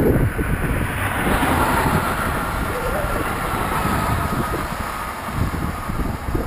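Road traffic going by, one vehicle's tyre noise swelling about a second in and fading, over wind buffeting the microphone.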